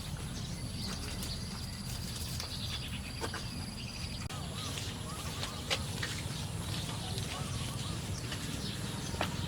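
Outdoor ambience with birds calling: a high held whistle in the first half and wavy chirps in the second, over a steady low rumble and scattered light clicks.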